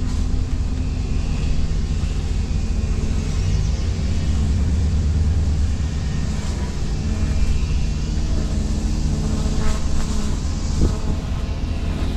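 Vehicle driving slowly: steady low engine and road rumble, with a couple of faint clicks near the end.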